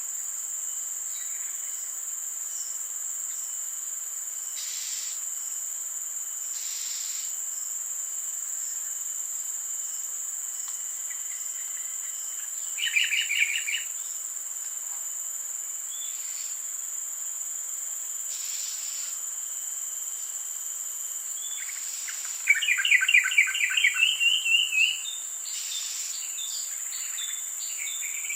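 Steady, high-pitched drone of insects such as crickets or cicadas. A bird breaks in twice with a fast run of chattering notes, a short run about halfway through and a longer, louder one near the end.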